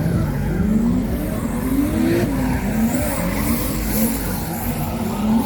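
A car drifting: its engine revving up and falling back over and over, with tyres squealing and skidding.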